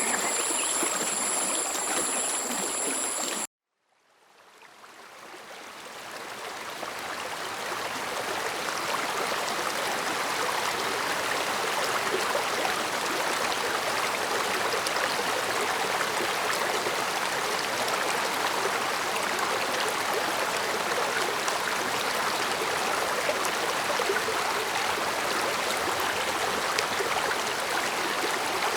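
Stream water rushing and trickling in a steady, even wash, with two thin high-pitched tones over it at first. About three and a half seconds in, the sound cuts out abruptly, then the stream fades back in over several seconds and runs steadily.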